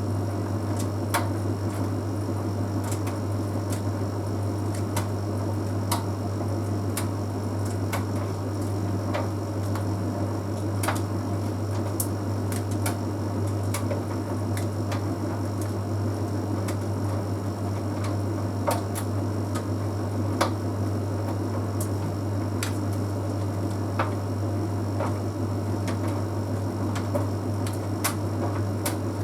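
Bosch Series 6 heat pump tumble dryer running mid-cycle: a steady low hum with irregular light clicks and ticks every second or so as the drum turns.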